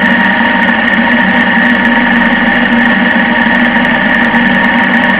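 Sport motorcycle engine idling steadily, heard close up from a camera mounted on the bike itself.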